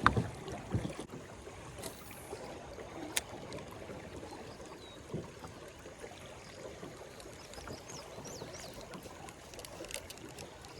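Flowing river water trickling and lapping around a kayak, with a few light clicks and knocks.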